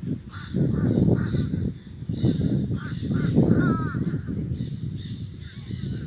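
Green parrots squawking repeatedly in short calls, over a low rumbling noise.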